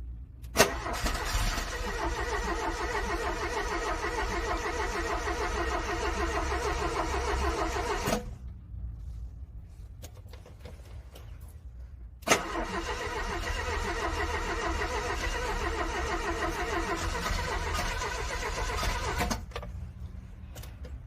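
A car's starter motor cranks a cold engine twice, each time for about seven seconds with a rapid, even chugging, and each attempt begins with a sharp click. The engine does not catch, and the cranking stops each time. A low rumble runs underneath.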